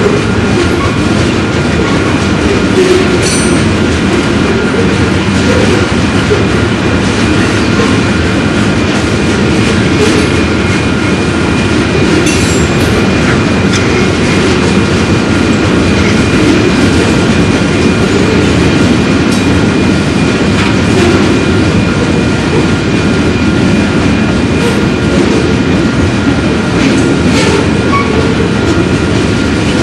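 Train rolling along the rails: a steady, loud rumble with wheel clatter and a thin, steady squeal over it.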